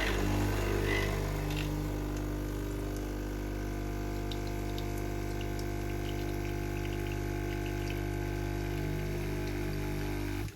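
DeLonghi EC 685 espresso machine's vibratory pump running with a steady hum as it pushes water through a single shot of espresso, starting abruptly and cutting off suddenly near the end when the single-cup dose is done.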